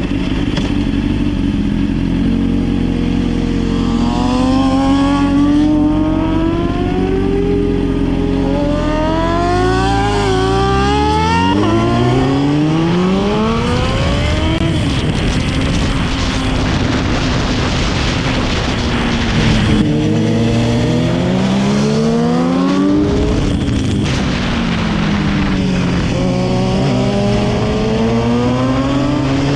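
Motorcycle engine ridden hard around a tight track, its pitch climbing steeply as it accelerates and falling back as it slows for the corners, again and again.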